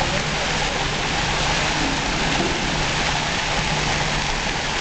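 Hailstorm: hail and rain pelting down onto the ground and surfaces in a dense, steady downpour.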